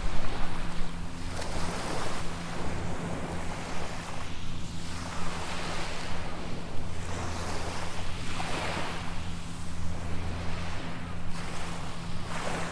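Small waves washing up on a sandy beach, the rush of surf swelling and fading again every few seconds, over a steady low hum.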